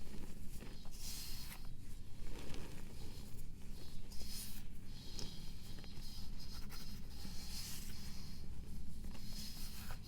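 Irregular scraping strokes, about one a second, as a block of pressed powder is shaved.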